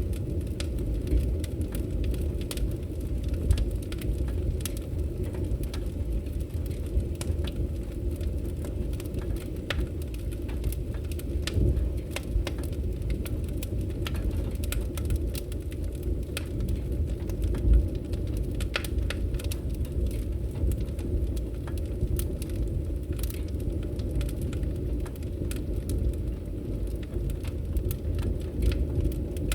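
Wood fire crackling in a fireplace: a steady low rumble of flames with irregular sharp pops and snaps, the loudest about three and a half seconds in and just before the middle.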